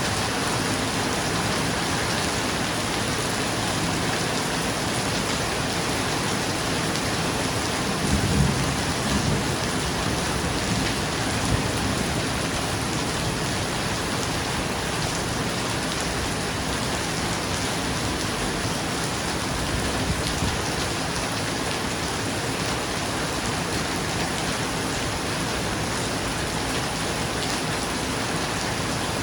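Steady rain falling on a roof, with a low rumble of thunder about eight seconds in.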